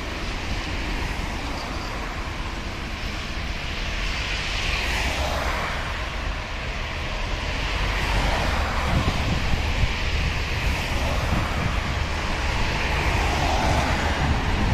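Rail grinding train passing: a steady low engine rumble with a rushing noise that grows louder toward the end, and cars swishing past on the road in between.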